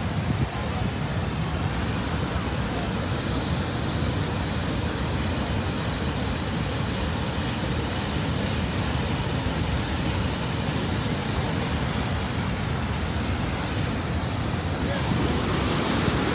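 Big Sioux River in flood pouring over the falls, a steady rushing of white water that gets a little louder and brighter near the end.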